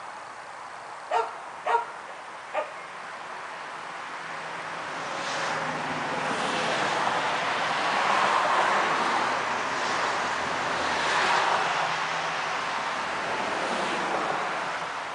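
Three short, sharp animal calls in the first few seconds, followed by a gust of wind that rises and falls through the trees.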